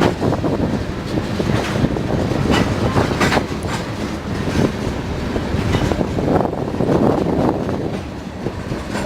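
Railroad cars rolling past, wheels clicking over rail joints at irregular intervals over a steady low rumble.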